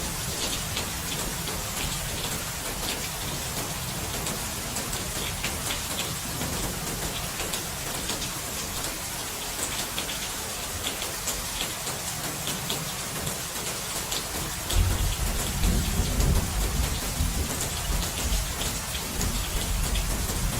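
Steady rain falling, with the fine patter of individual drops. About three-quarters of the way through, a deep rumble of thunder comes in and lifts the overall loudness.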